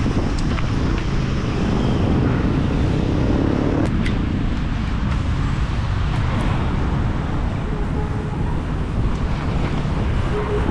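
Steady rumbling wind noise on the microphone of a camera carried on a moving bicycle, with street traffic underneath.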